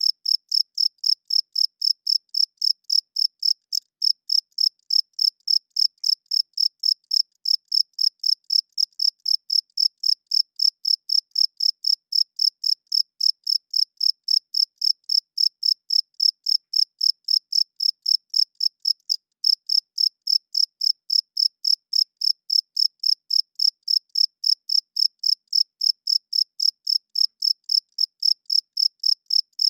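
Male cricket chirping in a steady, even rhythm of about three high-pitched chirps a second, made by rubbing its wings together, with one brief break about two-thirds of the way through.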